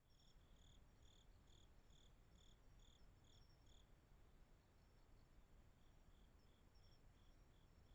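Faint chirping of crickets: one repeats a short chirp about twice a second, with a fainter trilling insect behind it, over a steady low hiss.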